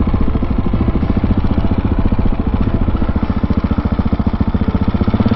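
Husqvarna 701 supermoto's single-cylinder engine running steadily, its exhaust pulses coming fast and even.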